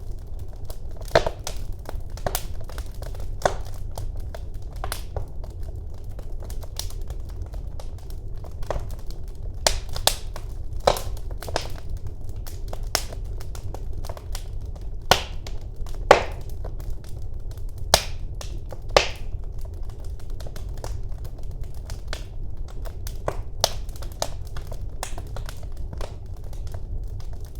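Wood fire crackling in a fireplace: irregular sharp pops and snaps over a steady low roar of the flames, with a few louder pops scattered through.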